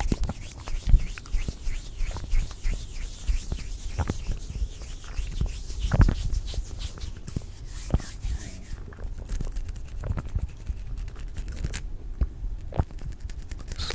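Close-miked ASMR trigger sounds: a steady run of irregular soft clicks and scratches, with a few louder taps about 1, 4 and 6 seconds in.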